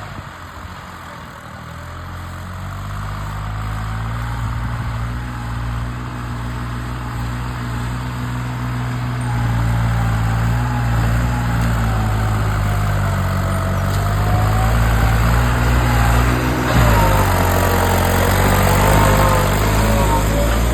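Fully loaded tractor's diesel engine running with a steady low rumble, growing louder as it comes closer.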